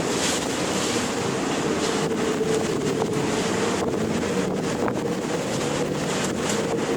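Ocean waves and wind: a steady rushing noise with brief splashy surges and a faint steady hum underneath.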